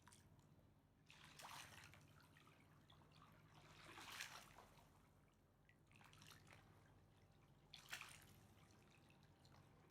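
Faint water lapping and splashing at the edge of the Mississippi River, four soft surges about two seconds apart over a low steady hum.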